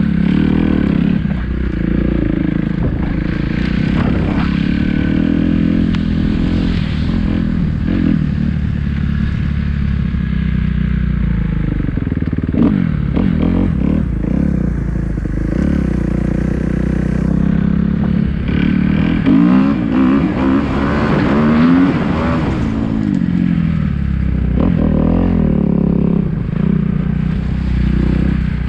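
Kawasaki KX250F dirt bike's single-cylinder four-stroke engine running and being revved, its pitch rising and falling again and again, with the strongest climbs about twelve seconds in and again around twenty seconds in.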